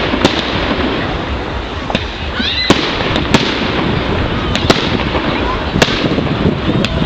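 Fireworks display: a continuous crackle with sharp bangs about once a second, and a few rising whistles about two and a half seconds in.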